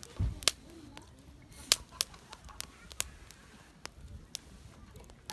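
Wood fire crackling: irregular sharp pops and snaps of burning wood, about a dozen in a few seconds, with a soft low thud right at the start.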